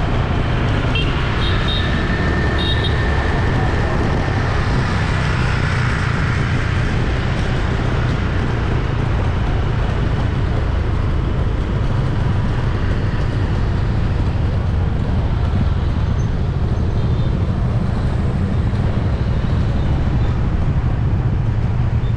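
Busy city street traffic: a steady rumble of vehicle engines and tyres, with a few short high-pitched sounds about one to three seconds in.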